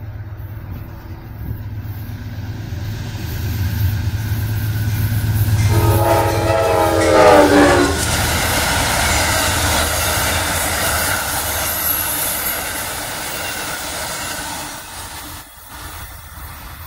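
GE Genesis P42DC diesel passenger locomotive approaching and passing at speed. Its engine drone builds, then the horn sounds a chord for about two seconds, dropping in pitch as the locomotive goes by. The wheels and cars then rush past and fade away.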